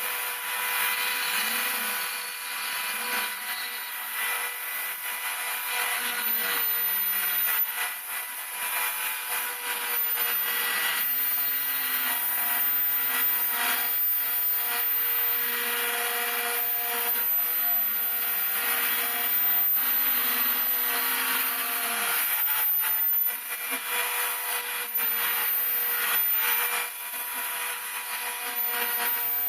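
Homemade CNC router milling model-aircraft wing ribs: the spindle runs with a steady high whine and a cutting hiss. Under it is a lower hum that shifts pitch every few seconds as the machine changes moves.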